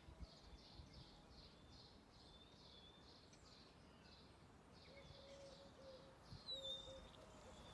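Faint birdsong: a run of high chirps, about three a second, with thin whistled notes near the end.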